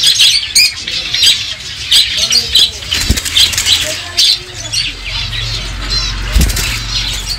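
Many caged budgerigars chattering together in rapid, high chirps and warbles. A low rumble runs underneath, with two sharp thumps about three and six seconds in.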